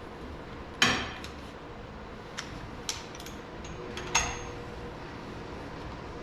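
Sharp metallic clinks of hand tools and engine parts being handled, about four in all, the loudest about a second in and one near four seconds that rings briefly.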